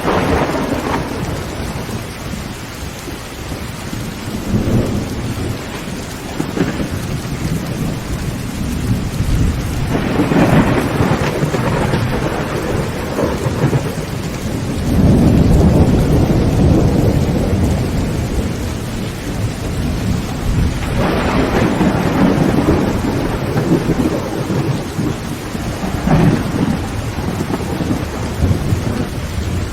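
Heavy rain drumming steadily on a tin roof while thunder rolls several times. The longest and loudest low rumble comes about halfway through.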